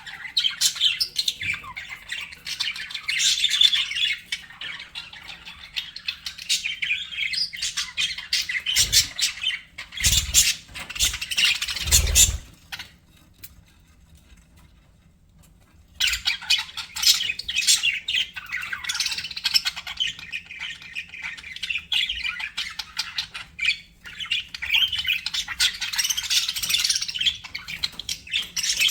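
Budgerigars chattering: fast, dense chirps, warbles and squawks, stopping for about three seconds midway, then resuming. A few low thumps come shortly before the pause.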